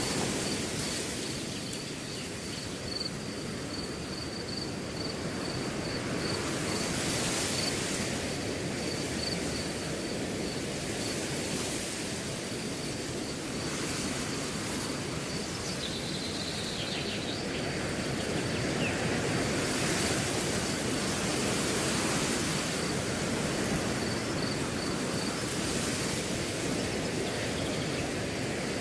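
Wind blowing through grass in a steady rush that swells with gusts every few seconds, with a cricket chirping in a high, pulsing trill through most of it.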